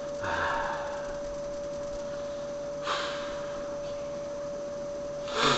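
A steady high-pitched whine on a single pitch throughout, with a soft breath-like rush about a second in and short rustling noises near three seconds and near the end.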